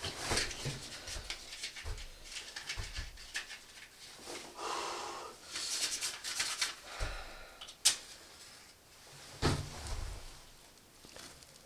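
Close-up handling sounds: scattered rustling and small knocks, a sharp click about eight seconds in and a dull thump shortly after.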